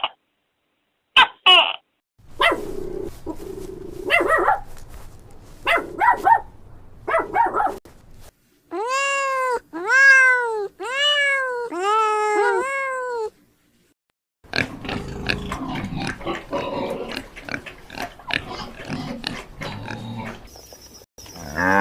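A series of animal calls played one after another. In the middle are five evenly spaced calls, each rising and then falling. Near the end a cow starts to moo.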